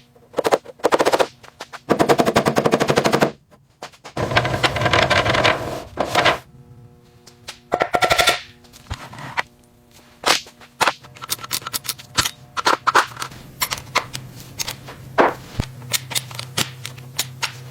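Several bursts of rapid rattling impacts from a power tool, each lasting one to two seconds. From about halfway through, a steady low hum runs underneath.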